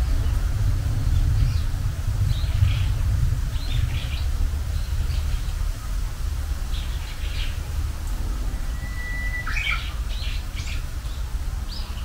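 Japanese bush warbler and other small birds calling, with short high chirps about once a second. About nine seconds in comes a brief held whistle, then a quick flourish of notes. A steady low rumble runs underneath.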